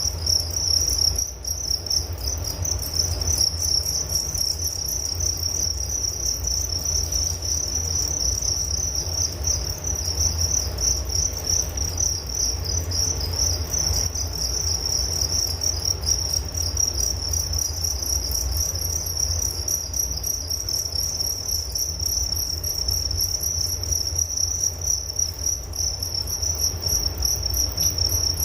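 Crickets chirping in a continuous high, rapidly pulsing trill that never pauses, over a steady low rumble.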